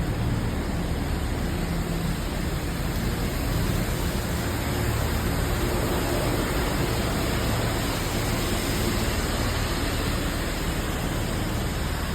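Steady heavy rain with a low engine hum from street traffic underneath.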